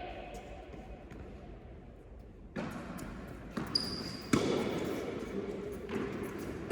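Tennis ball impacts on an indoor court: a few sharp knocks of the ball being struck and bouncing, starting about two and a half seconds in, the loudest a little past four seconds.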